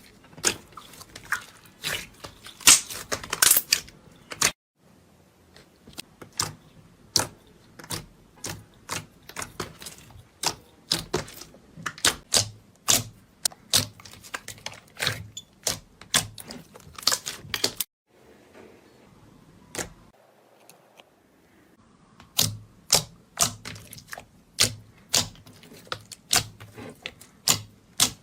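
Kinetic sand being worked, giving a run of sharp, crisp crunching clicks, a few a second. The clicks break off briefly twice.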